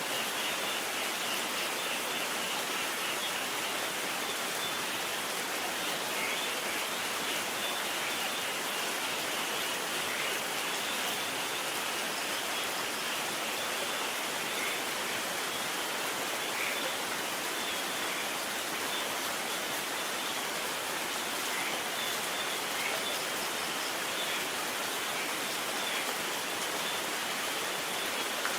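Steady rain falling, an even hiss that holds the same level throughout, with no thunder.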